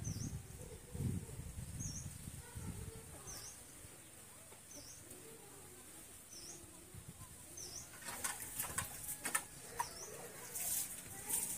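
A small bird calls over and over, a short high note that dips and rises, about every one and a half seconds. Near the end come several sharp splashes as water is scooped from a basin and poured during an outdoor bath.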